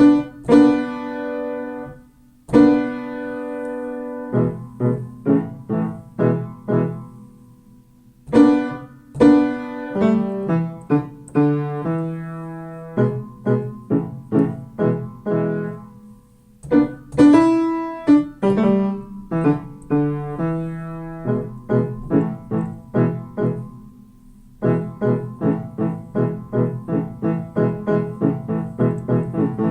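Piano playing. Two loud struck chords ring out at the start, then come runs of single notes and chords. From near the end it settles into an even, steady pulse of repeated notes, about two a second.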